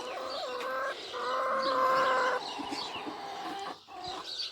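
Domestic hens clucking and calling, with one long, level drawn-out call from about one to two and a half seconds in.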